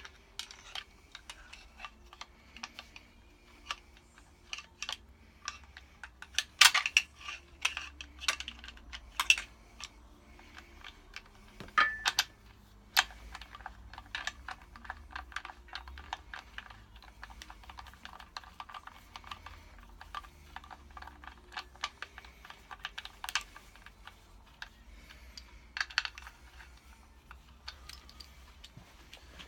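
Irregular light clicks and metallic clinks of hand work on engine parts as the timing chains are fitted to the sprockets, over a faint steady hum. The clicks come in busy clusters, with a few louder knocks about 7, 12 and 26 seconds in.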